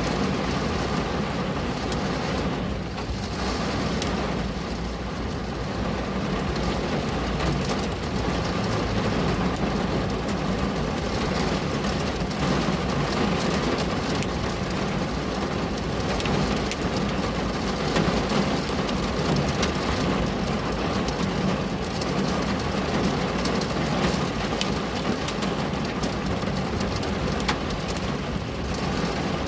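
Steady rain falling on a window: an even hiss with scattered fine drop ticks over a steady low rumble.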